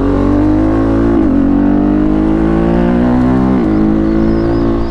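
KTM RC390's single-cylinder engine, breathing through a full-system aftermarket exhaust, pulling under throttle with its pitch slowly climbing, then dropping sharply about a second in and again after three and a half seconds as it shifts up a gear.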